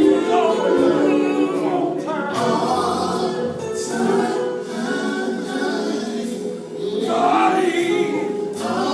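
A gospel vocal group singing a song together, several voices at once, with sharp accents now and then.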